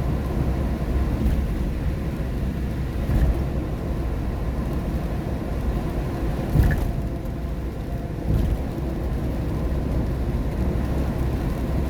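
Steady low rumble of road and tyre noise heard inside a moving car on a rain-wet road, with a few brief knocks, the sharpest just past halfway.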